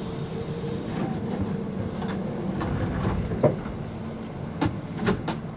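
Inside a Kintetsu 12200 series train running into a station: a steady rumble with a fading hum, and a handful of sharp clacks and knocks from the running gear in the second half.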